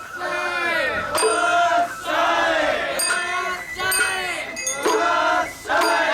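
A group of voices chanting rhythmic festival calls together, about one drawn-out call a second, with short metallic rings of small bells between the calls.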